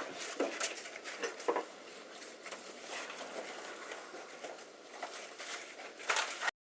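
Foil-faced radiant barrier material crinkling and rustling with scattered crackles as a scrap piece is handled and pressed into place. The sound cuts off suddenly near the end.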